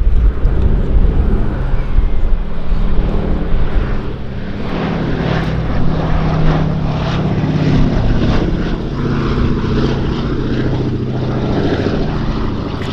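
Boeing B-17G Flying Fortress with its four Wright R-1820 Cyclone radial engines running, a steady propeller drone; the engine note comes through more clearly from about four seconds in.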